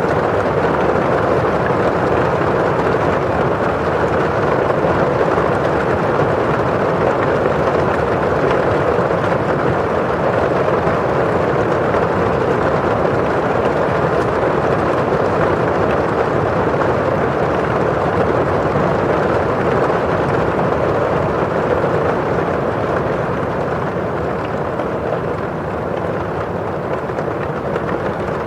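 Steady rain on a window pane and falling outside: an even rushing hiss with no distinct rhythm, a little softer in the last few seconds.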